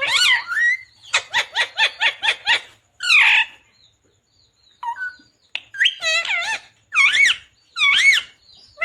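Ringneck parrot calling: a quick run of about eight short sharp calls, a pause, then several longer calls that waver up and down in pitch.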